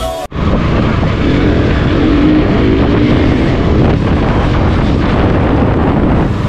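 KTM RC motorcycle engine running under way, with wind rushing over the microphone, steady and loud. A music track cuts off abruptly just after the start.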